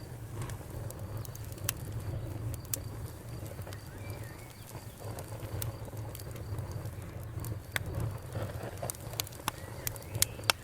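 Wood fire crackling: irregular sharp pops and snaps over a steady low rumble, with a cluster of the loudest pops near the end.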